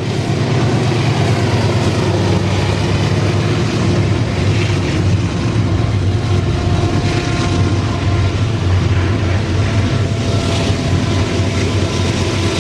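Loaded freight train carrying steel products rolling past: a loud, steady rumble and clatter of the wagons, with faint thin high tones about halfway through.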